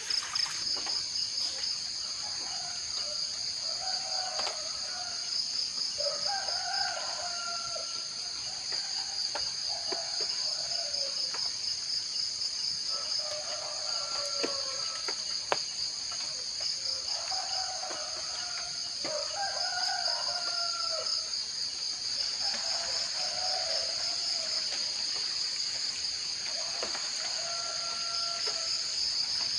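Steady, high-pitched insect chirring with bird calls repeating every few seconds over it.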